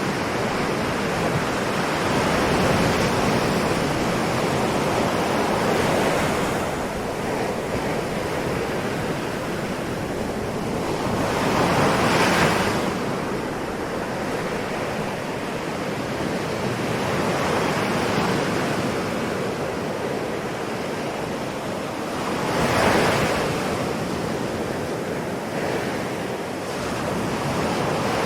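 Ocean waves breaking on the shore over a steady wash of surf, with a wave cresting about every five to six seconds. The breaks about twelve seconds in and near twenty-three seconds in are the loudest.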